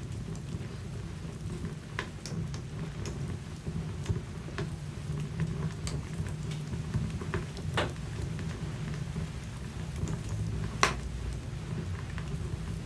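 Wood fire burning in a fireplace: a steady low rumble of flames with irregular crackles and pops from the logs, the sharpest pop about eleven seconds in.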